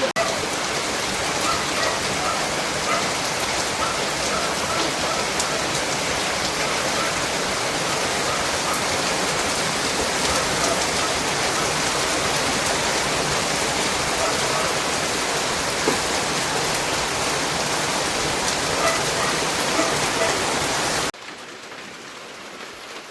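Steady heavy rainfall, an even dense hiss. Near the end it cuts abruptly to a much quieter hiss.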